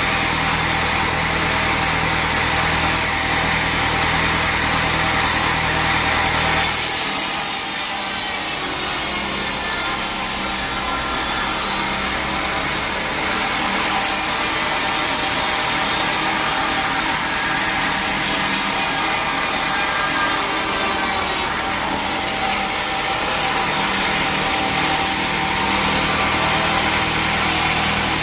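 Sawmill saw running with a steady machine hum, then cutting through a teak log from about seven seconds in until about twenty-one seconds. The cut adds a high-pitched rasp over the motor, and the plain running hum returns when the blade clears the wood.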